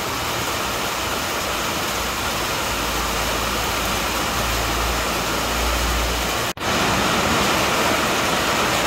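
Heavy rain falling steadily, a dense even hiss, with a low rumble under it for a few seconds in the middle. About six and a half seconds in the sound drops out for an instant and comes back as rain spattering on wet pavement close by.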